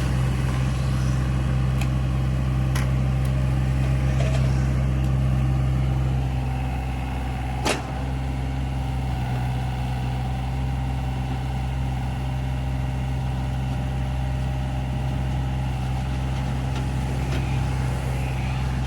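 A heavy vehicle's engine running steadily with a deep hum, easing slightly about six seconds in. A single sharp click about eight seconds in.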